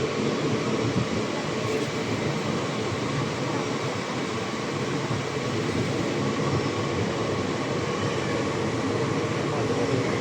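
Train running past on the rails, a steady rumble of wheels and carriages that holds even throughout.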